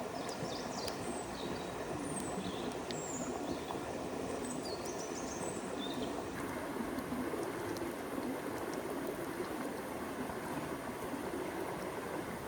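River water rushing steadily, with small birds chirping in the first half; the chirping stops abruptly about halfway through, where the rushing changes slightly in tone.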